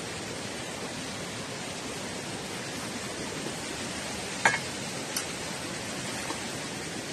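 Steady, even hiss with a few light clicks in the second half, the clearest about four and a half seconds in.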